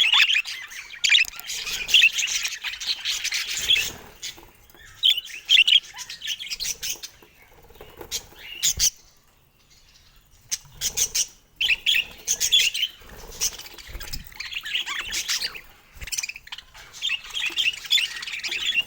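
Budgerigars chirping and warbling in quick bursts, with a pause of a second or two about halfway through.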